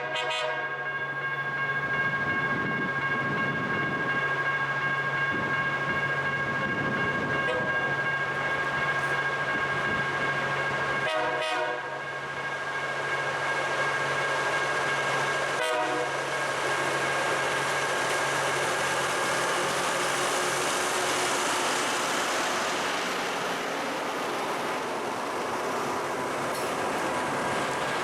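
LORAM rail grinder train rolling past while deadheading, not grinding: its engines drone steadily under a rising rumble of wheels on rail. Steady high warning tones sound over the top the whole time.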